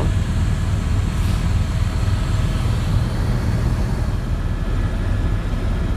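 Helicopter in flight heard from inside the cabin: a steady, loud low drone of rotor and engine with a noisy rush over it and a thin steady high tone.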